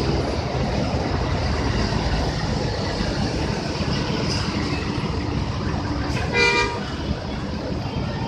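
Steady rumble of bus engines and road traffic, with one short horn toot about six seconds in.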